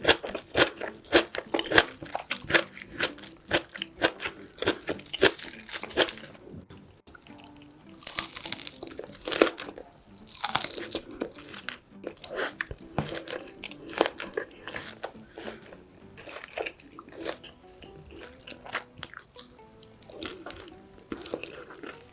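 Close-up chewing and crunching of braised pork back ribs and kimchi, a rapid run of wet, sharp mouth clicks. A couple of longer hissing sounds come near the middle.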